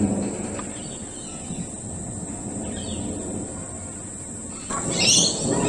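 Low rumble of distant thunder dying away, then a bird calling with a few quick high chirps near the end.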